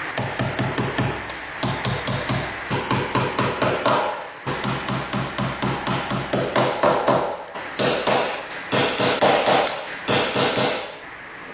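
Rapid repeated hammering, about five or six strikes a second, in runs with brief pauses, each strike with a short ring.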